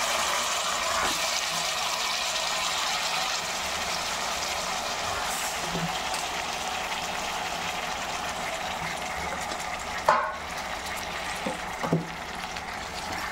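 Washed raw chicken pieces sizzling in hot oil and fried onions in a steel pot, a steady hiss that slowly eases, with a sharp knock about ten seconds in.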